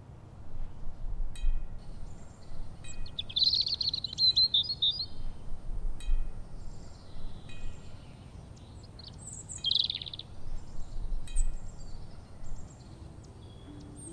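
Small birds chirping and twittering in short bursts, with faint high ticks between them.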